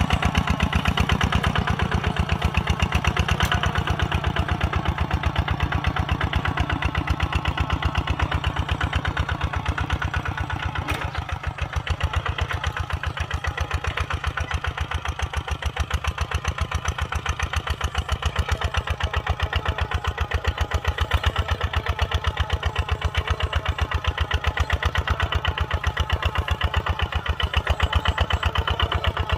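Kubota RT140 single-cylinder diesel tractor engine running steadily, a rapid even chugging of its firing pulses.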